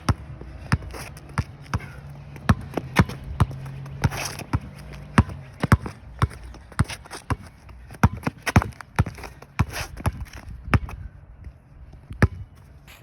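Basketball being dribbled hard: a run of sharp bounces, about two a second, during a drill of attacking dribbles, pull-backs and crossovers.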